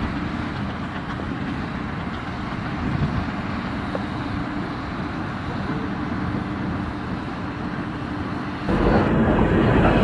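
A train running on the line, a steady rumble of wheels on rail. It gets suddenly louder near the end.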